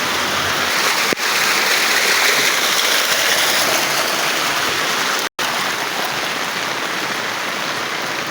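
Heavy rain falling steadily in a dense hiss, with a faint click about a second in and the sound cutting out for an instant about five seconds in.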